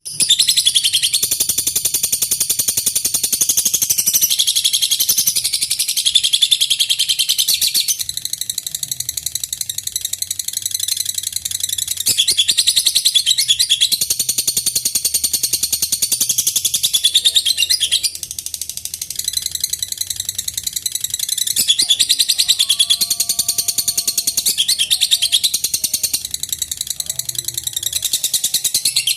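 Lovebird ngekek: a long, rapid, high-pitched chattering trill poured out almost without pause. It dips briefly a few times and then resumes.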